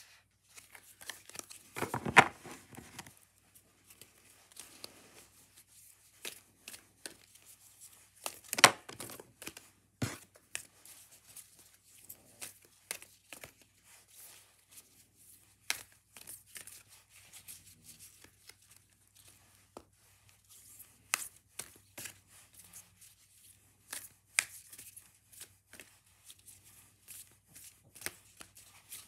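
A deck of oracle cards being shuffled by hand: irregular card snaps and rustling, with two louder slaps, one about two seconds in and one near nine seconds.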